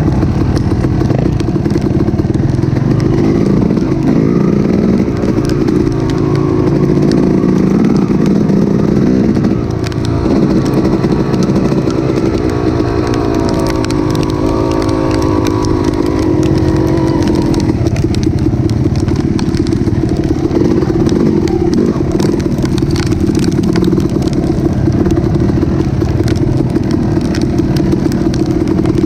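An engine running continuously, its pitch drifting up and down, with a patter of sharp ticks that grows denser in the second half.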